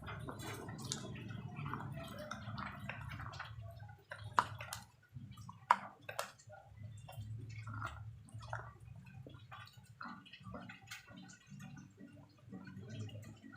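Close-up chewing of water-soaked slate pencils: continuous wet, squishy mouth sounds with scattered small crunches. Two sharp, loud snaps come about four and a half and six seconds in.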